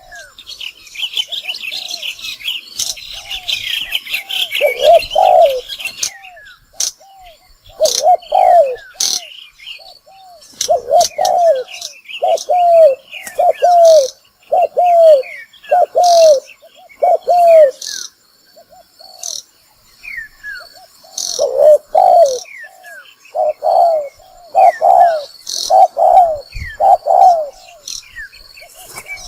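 Spotted dove cooing in quick series of short low notes: a decoy dove's call, used to lure wild doves to a trap. Small birds chirp and twitter higher up, densely for the first six seconds and scattered afterwards.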